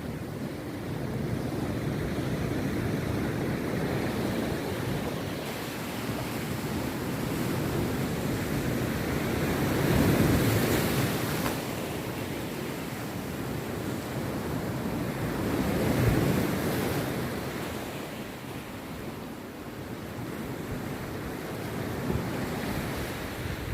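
Rough sea surf breaking on a beach, a continuous wash that swells with each wave, the loudest breakers about ten and sixteen seconds in.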